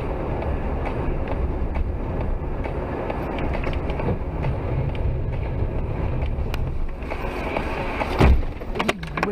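Steady road and engine noise from a moving car, heard from inside, with faint small clicks. About eight seconds in there is one heavy, deep thump, then a few sharp knocks.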